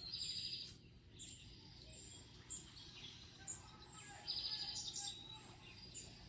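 Small songbirds chirping, with scattered short high chirps and a rapid high trill at the start and again about four seconds in, played through a television's speakers.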